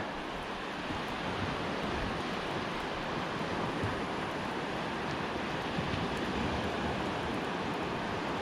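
Ocean surf washing steadily on the beach.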